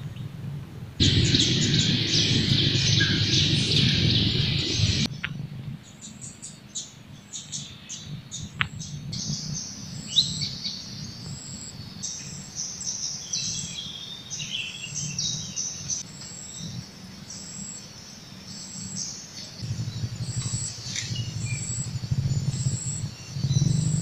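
Birds chirping and calling. A dense, loud stretch of high calls runs from about a second in and cuts off suddenly about four seconds later. After that come scattered sharp chirps, then from about ten seconds in a short high note repeating roughly once a second over a faint low hum.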